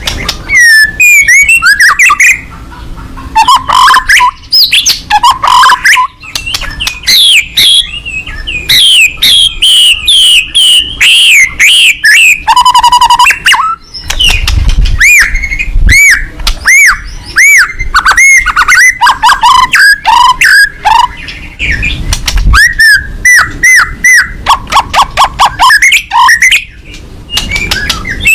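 White-rumped shama singing loudly and without pause: a dense run of varied whistled phrases, fast repeated notes and brief trills.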